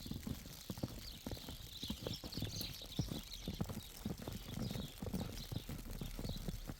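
Walking footsteps: a quick, irregular run of short knocks, several a second.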